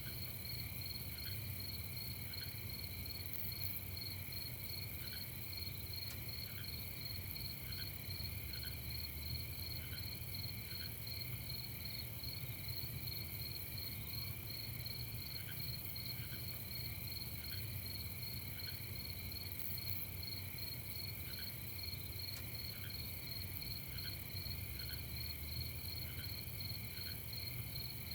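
Crickets chirping in a steady, rapidly pulsing night chorus, with a fainter short note repeating about once a second and a low rumble underneath.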